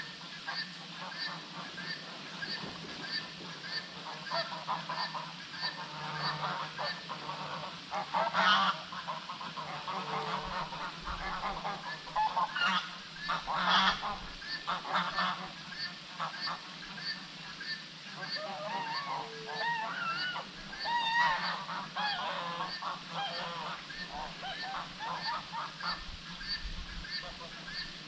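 Birds calling loudly in irregular bursts, over an even high chirp that repeats about one and a half times a second and a steady low hum.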